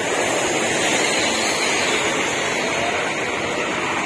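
Steady rush of rain and wet-road noise, with a coach bus running close by.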